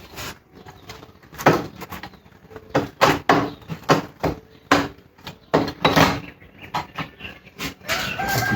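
Irregular knocks and clatter of hard objects being handled and set down, a dozen or more sharp strikes at uneven intervals.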